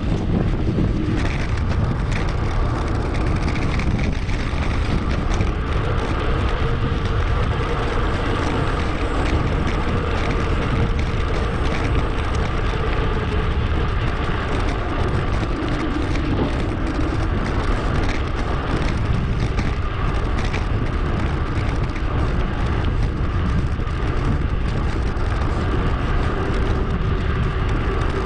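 Steady wind buffeting on a bike-mounted action camera's microphone, mixed with tyre and road noise from a mountain bike riding along.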